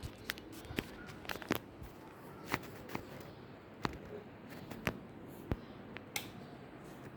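A 56-inch BRB ceiling fan running with a low steady whir, under about a dozen sharp, irregularly spaced clicks.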